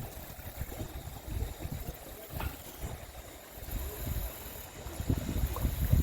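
A creek running, its water making a steady faint hiss, under uneven low rumbling surges, the loudest just before the end.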